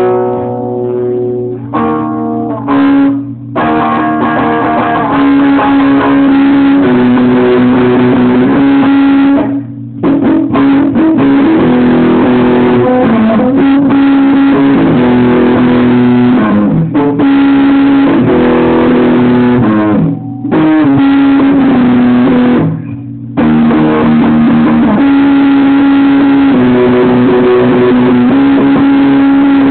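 Loud guitar music, electric guitar by the sound tags, playing sustained notes that step up and down in pitch, with a few brief breaks.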